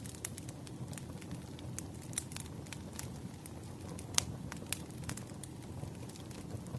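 Wood fire crackling: a steady low rumble of burning logs with irregular sharp pops and snaps, the loudest pop about four seconds in.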